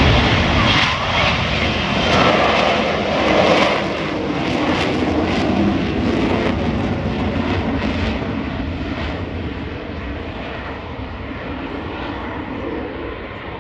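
F-35B Lightning II jet engine, a Pratt & Whitney F135 turbofan, running loud and fading steadily as the jet moves away.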